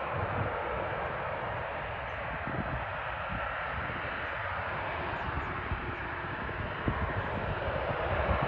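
Jet engines of a taxiing Boeing 737-800 running at low taxi thrust: a steady, even hiss that holds unchanged throughout.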